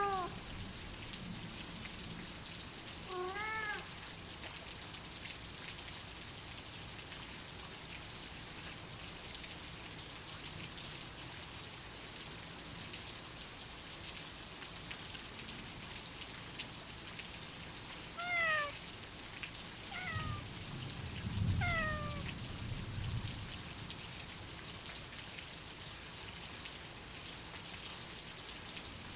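Steady heavy rain with a domestic cat meowing: once a few seconds in, then three short falling meows in a row past the middle. A soft low rumble sits under the last of the meows.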